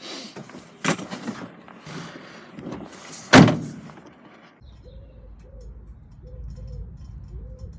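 Truck trailer doors being handled: a few metal knocks and clatters, then one loud bang about three seconds in. After that comes a steady low rumble, with a faint call repeated about five times over it.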